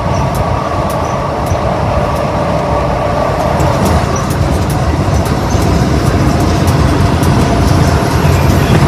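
Steady road and engine noise heard inside a moving car: a dense low rumble, with a faint hum over it that fades out a few seconds in.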